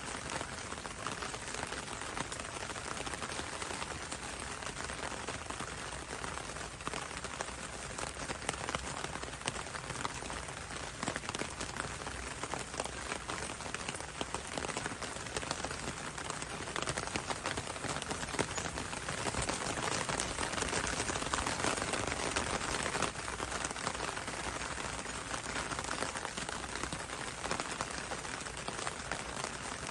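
Steady rain falling on leafy foliage, a dense haze of individual drop hits that swells a little past the middle.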